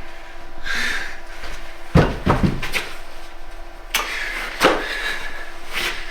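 A series of sharp thumps and knocks in a small room: a cluster of several about two seconds in, then single knocks about four seconds in, a little later, and near the end.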